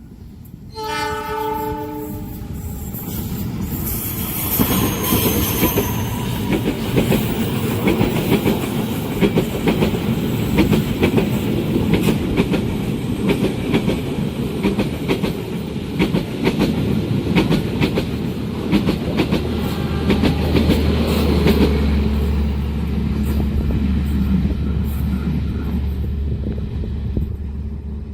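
A train locomotive's horn sounds briefly about a second in. Then a long train passes close by at speed, a steady rumble with rapid clickety-clack of wheels over the rail joints for well over twenty seconds. A low steady hum joins in the last several seconds before the sound drops away.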